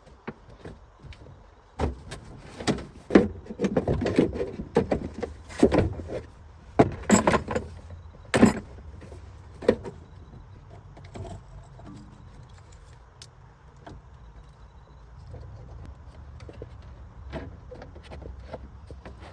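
Irregular knocks, clanks and rattles, busy for several seconds and then thinning to a few scattered clicks over a faint low hum.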